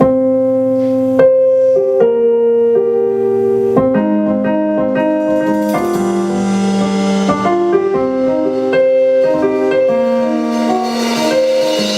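A live band begins the instrumental opening of a song with chords on a keyboard, the notes struck and held one after another at a steady pace.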